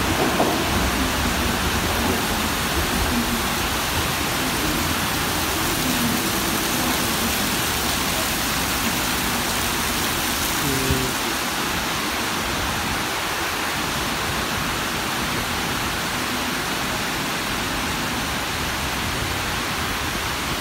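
Heavy tropical downpour: a loud, steady hiss of rain pouring down, with water running off the roof.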